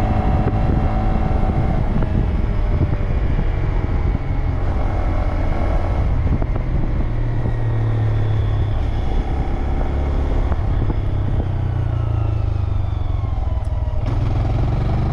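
Motorcycle engine running under way, its pitch falling slowly through the second half.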